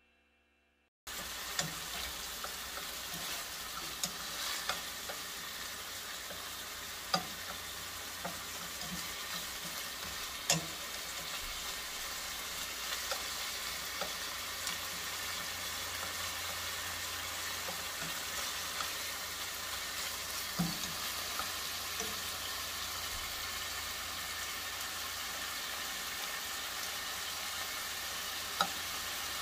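Shrimp and vegetable stir-fry sizzling steadily in a hot pan, with scattered sharp clicks of a utensil against the pan. The sizzle starts suddenly about a second in.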